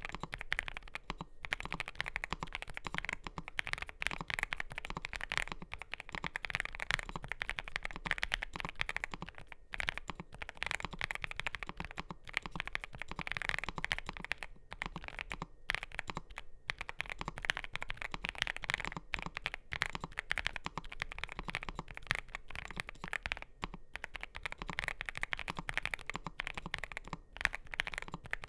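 Fast continuous typing on a NuPhy GEM80 mechanical keyboard with NuPhy Raspberry switches and PBT doubleshot mSA keycaps: a dense stream of keystroke clacks, broken by a few brief pauses.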